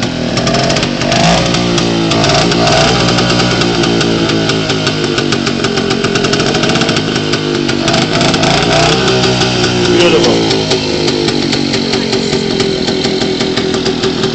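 A 1953 BSA 125 cc single-cylinder two-stroke motorcycle engine running, its pitch rising and falling several times as it is revved.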